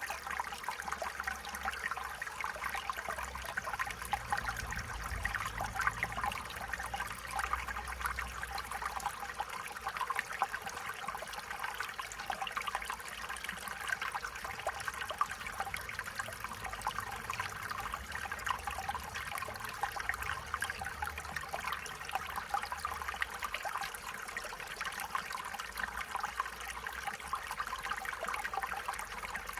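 Stream water flowing and trickling steadily, with a fine babbling texture and a faint low rumble underneath.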